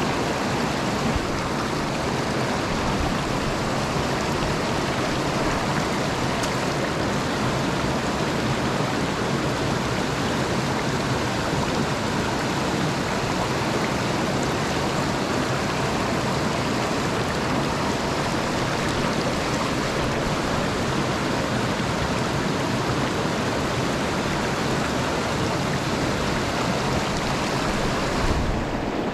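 Mountain stream water rushing steadily over rocks, an even loud hiss.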